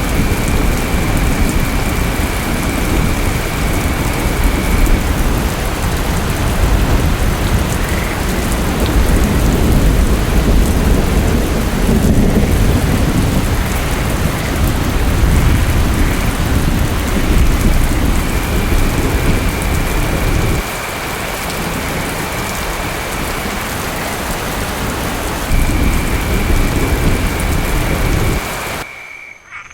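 Heavy, steady rain with rolling thunder rumbling underneath; the low rumble eases about two-thirds of the way through. A faint high steady tone comes and goes, and the sound drops away sharply just before the end.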